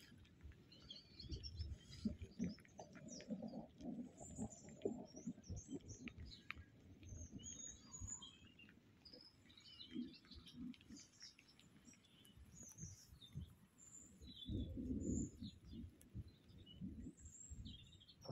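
Small birds chirping and twittering faintly, with irregular low rumbles and thumps underneath, the strongest about fifteen seconds in.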